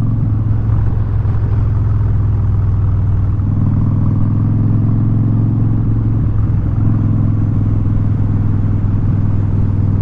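Harley-Davidson Street Bob's V-twin with Vance & Hines exhaust running steadily under way, with a brief change in the engine note about six and a half seconds in.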